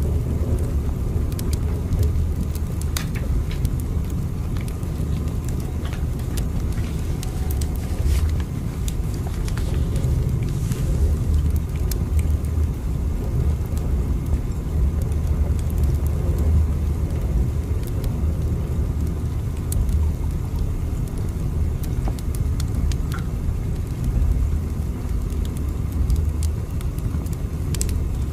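Steady low rumble of a train running, with faint scattered clicks and rattles over it.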